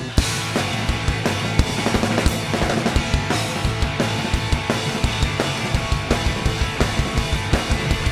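Rock band playing an instrumental passage without vocals, the drum kit keeping a steady driving beat with a sharp hit just after the start.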